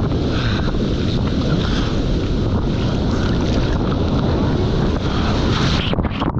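Broken surf and whitewater rushing over a surfer's body-mounted camera, with water and wind buffeting its microphone in a loud, steady rumble. Near the end the sound turns muffled and choppy.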